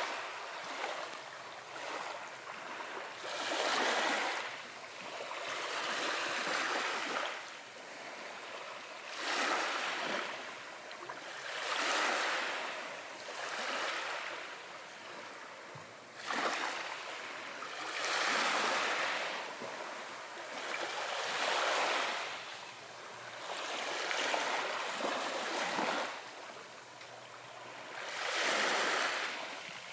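Ocean waves washing in. Each wave is a swell of hiss that rises and fades, one about every two to three seconds.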